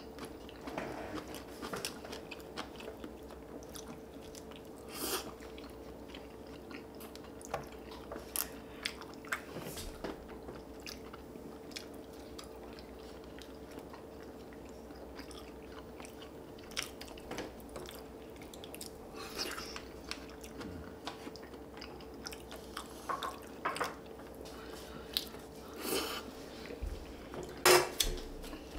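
Close-up chewing and biting of spicy stir-fried chicken (dakgalbi), with scattered small clicks and smacks over a faint steady hum. Near the end comes a louder short snip of kitchen scissors cutting the food.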